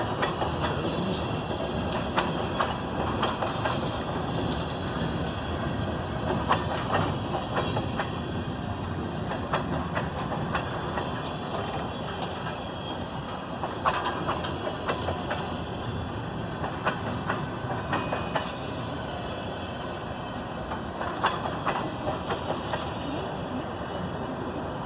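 Loaded freight train cars rolling past: a steady rumble of steel wheels on rail with irregular clicks and clacks as the wheels cross rail joints.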